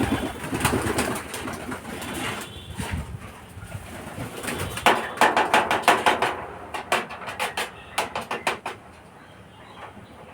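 Racing pigeons cooing. About halfway there is a rapid run of loud, sharp claps lasting a few seconds, then the sound drops to a low murmur of birds near the end.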